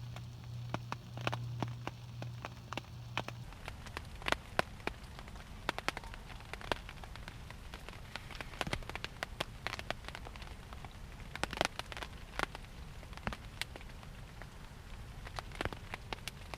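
Steady rain with heavy drops striking a hard surface close by in irregular, sharp taps. A low hum runs underneath and stops about three and a half seconds in.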